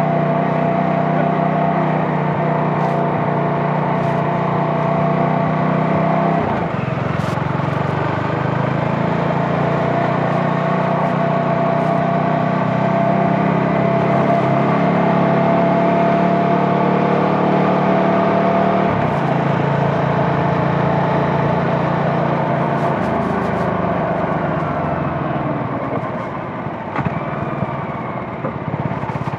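CFMoto 250NK's single-cylinder engine running under way, with a steady note whose revs fall about six seconds in and shift again near nineteen seconds, easing off near the end.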